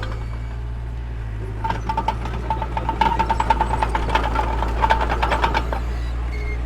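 Heavy-equipment diesel engine running steadily, with a fast metallic clanking and rattling, like crawler track links, from about two seconds in until near the end.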